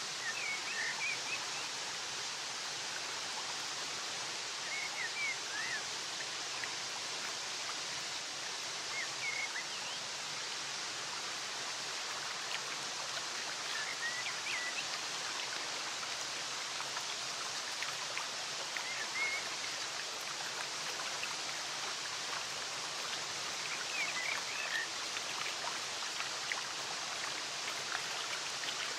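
Running water, a steady rushing hiss like a stream, with short, faint bird chirps every few seconds over it.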